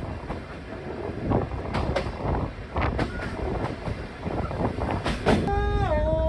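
Train running on rails: a steady low rumble with irregular clicks and clatter. Near the end a pitched tone steps down and holds for over a second.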